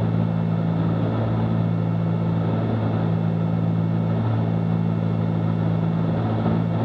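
Cessna 310Q's twin piston engines and propellers running steadily in level flight, heard from inside the cabin as a loud, even, low drone.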